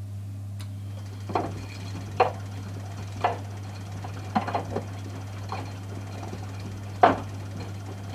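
Miele Softtronic W 435 washing machine in its wash phase: a click near the start, then the drum turns and a wet pillow tumbles in it, giving irregular soft thumps and sloshes about once a second. A steady low hum runs underneath.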